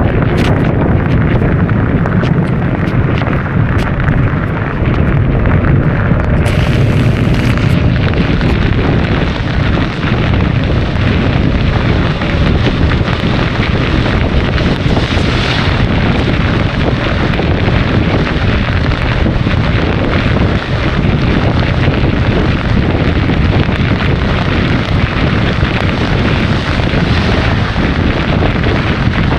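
Wind buffeting the action camera's microphone on a scooter ridden at speed: a loud, steady, rumbling rush, with a brief hiss about seven seconds in.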